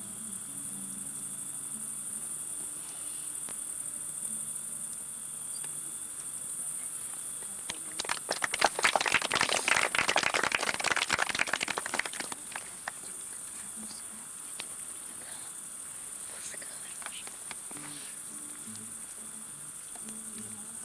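Audience clapping for about four seconds, starting about eight seconds in, over a steady high chirring of crickets. Faint guitar notes at the start and near the end.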